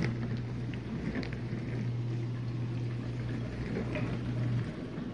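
Whirlpool dishwasher running its Normal wash: water spraying and splashing inside the tub over a steady motor hum, which cuts off near the end.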